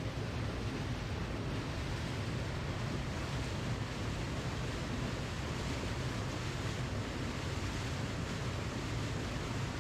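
Waterfall: a steady, even rush of falling water, heaviest in the low rumble, with no breaks or changes.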